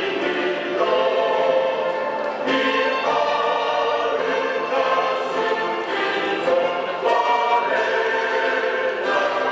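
A choir singing a slow song in sustained notes with instrumental accompaniment, most likely a recorded school song played at the end of the game.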